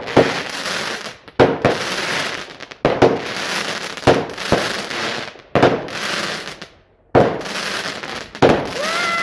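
Fireworks going off in a quick series: a sharp bang about once a second, each followed by crackling, with a brief pause about three-quarters of the way through.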